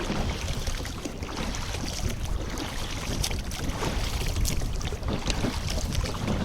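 Strong wind buffeting the microphone on an open boat, a rough fluctuating rumble, with a few light clicks.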